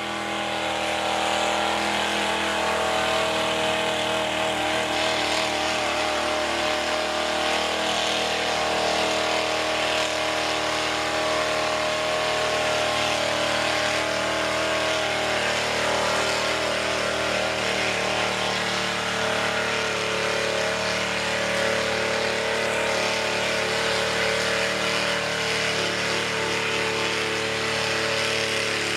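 Ford mud truck's 460 V8 on open headers running hard and continuously, its pitch wavering slightly and slowly sagging lower.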